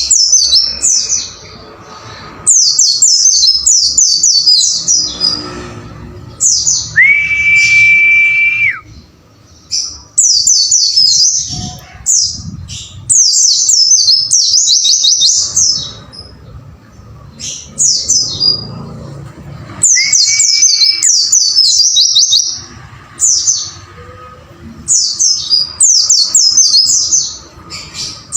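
Pleci (white-eye) song: bursts of rapid, high-pitched chirping phrases, each lasting a second or two, repeated with short pauses. Twice a long, level whistle at a lower pitch sounds between them.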